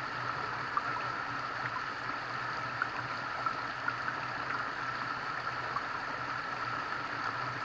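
Steady sound of running water, with a few faint clicks.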